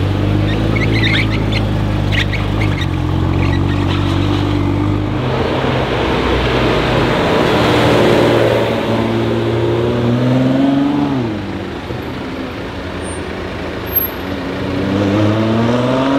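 Ford GT Carbon Series' twin-turbo 3.5-litre EcoBoost V6 idling steadily, then pulling away: the engine note climbs in pitch as it accelerates, drops back about eleven seconds in, and rises again near the end.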